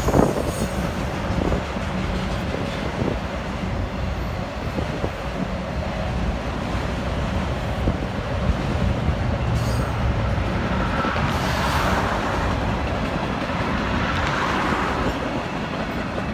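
Freight train rolling past, its autorack and tank cars running steadily on the rails with a continuous rumble of steel wheels.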